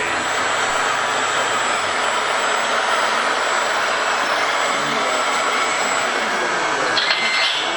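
Radio-controlled scale construction machines running with a steady whirring drone. About seven seconds in, a model truck's reversing beeper starts, beeping at an even pace.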